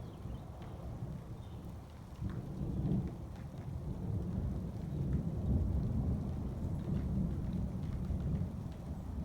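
Long, low rolling thunder that swells about two seconds in and again past the middle, with rain falling and scattered drops ticking.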